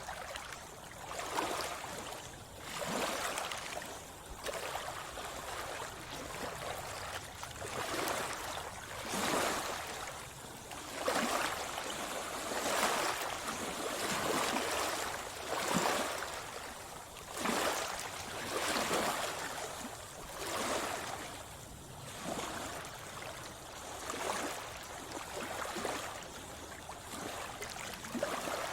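Sea water splashing and sloshing close to the microphone in repeated surges, about one every one and a half to two seconds, as from a swimmer's strokes.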